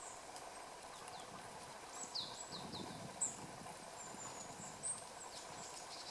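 Small birds calling: thin high notes and a few quick downward-sliding chirps, some in a quick run about two seconds in, over a steady faint background hum. Two short sharp clicks stand out, about three and five seconds in.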